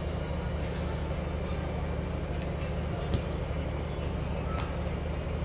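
Futsal game ambience: a steady low rumble with scattered faint knocks, and one sharp thump about three seconds in, like the ball being struck.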